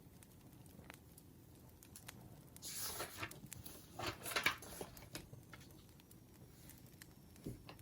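Campfire crackling, with scattered sharp pops and two louder noisy stretches about three and four seconds in.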